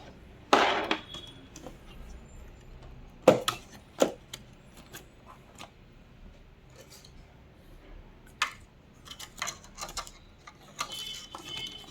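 Scattered clicks, taps and knocks of hands working inside an LED TV, handling its LVDS cable and connectors during a cable replacement. A cluster of small quick clicks comes near the end.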